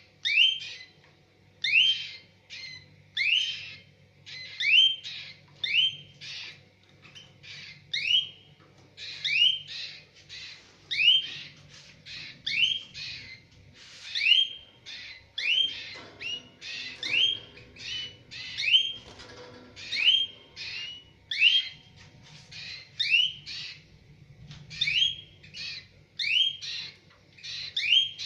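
Mosaic canaries in a breeding cage calling: short rising chirps, mostly in pairs, repeated about every one and a half seconds, over a faint low hum.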